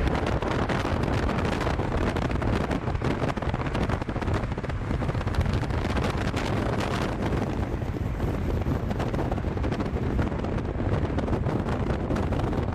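Heavy wind buffeting the microphone from a moving car, with vehicle engine noise running underneath.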